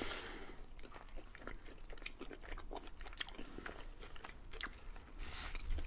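Close-miked chewing of chicken shawarma: scattered soft crunches and wet mouth clicks.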